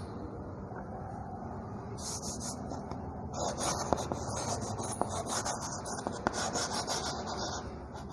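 Scratchy rubbing of a pen or marker writing by hand on a surface, starting about two seconds in and getting stronger, with a few sharp taps.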